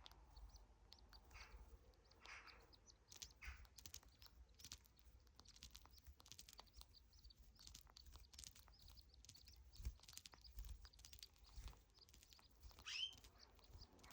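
Pet canary giving faint, scattered short chirps and soft clicks, with one louder chirp near the end.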